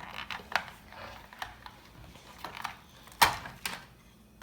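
Small plastic toy pieces clicking and knocking as they are handled and set down: a string of separate light taps, with one louder knock about three seconds in.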